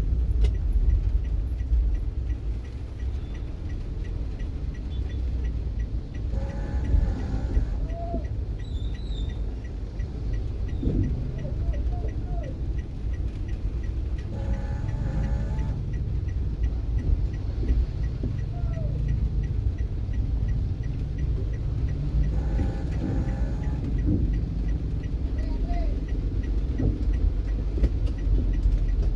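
Car driving, with a steady low road and engine rumble heard from inside. A short brighter sound comes back about every eight seconds, and a faint regular ticking runs underneath.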